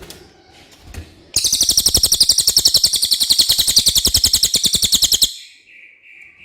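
Cililin bird singing: a loud, rapid trill of about ten notes a second that starts suddenly about a second in and runs for about four seconds, followed by a few softer notes near the end.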